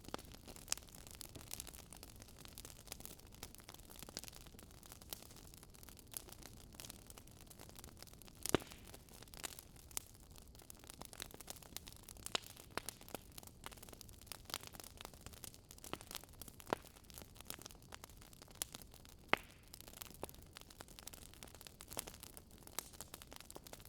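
Campfire of burning wood crackling, with irregular sharp pops over a low steady background, one louder pop about a third of the way in and another past three quarters.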